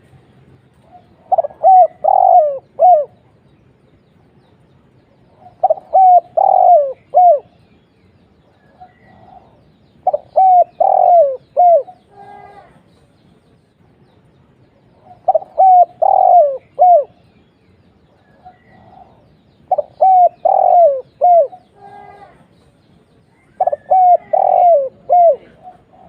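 Spotted dove (tekukur) cooing in a deep-voiced song with a single opening "kuk". The same phrase of several coos repeats six times, about every four and a half seconds.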